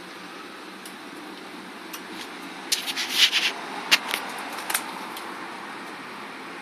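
A short flurry of scratchy clicks and rustling over a steady background hum, from pet budgies moving and nibbling among guava tree branches; it lasts about two seconds, starting near the middle.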